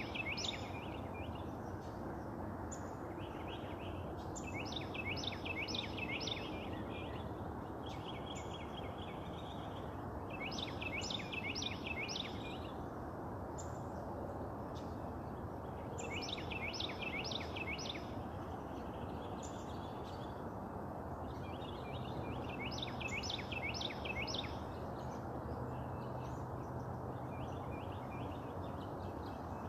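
A songbird repeating a short phrase of four or five quick, clear notes that slide downward in pitch, sung again every several seconds, over a steady low background rumble.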